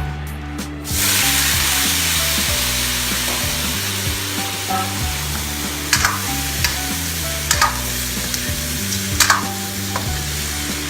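Chopped chicken hitting a hot wok of oil and pork and sizzling loudly from about a second in, with several sharp scrapes of a spatula stirring the pieces later on.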